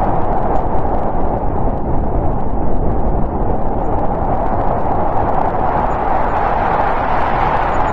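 Snowstorm wind blowing steadily: a dense rushing noise with a low rumble underneath, even in loudness, with no gusts or breaks.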